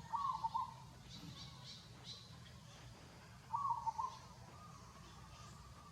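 A bird calls twice, about three and a half seconds apart. Each call is a short clear phrase of two or three quick notes. Faint high chirping goes on behind it.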